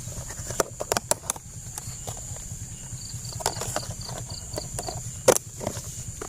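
Scattered clicks and knocks from handling the snake's enclosure, irregular, with the loudest knock a little past five seconds in, over a steady background hum.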